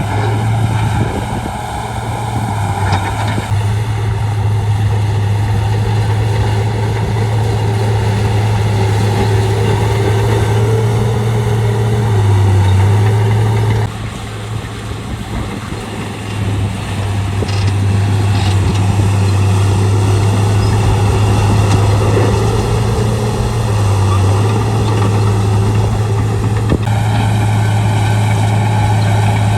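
Shantui D95 bulldozer's diesel engine running steadily while working, its low drone dipping briefly in pitch twice.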